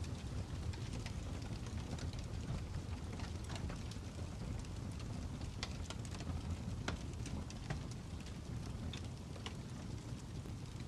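Fire crackling: scattered sharp pops and snaps, a few every second, over a steady low rumble.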